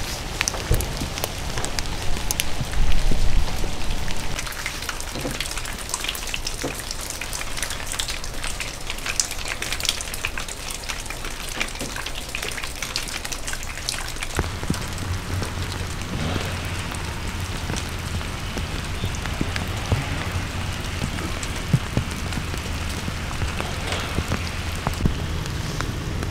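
Rain falling and dripping on surfaces, with many scattered drips, and a louder low rumble for a moment about three seconds in. A steady low hum comes in about halfway through.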